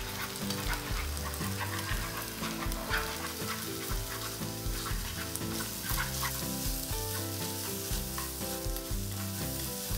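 Beaten eggs and green bell pepper strips sizzling in hot oil in a frying pan while being stirred and scrambled with chopsticks.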